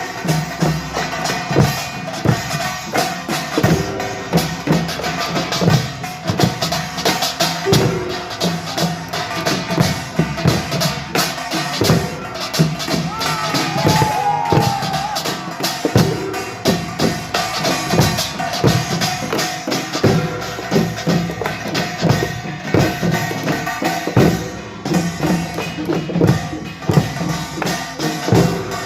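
Korean pungmul percussion band playing: small hand gongs and drums struck together in a dense, unbroken rhythm.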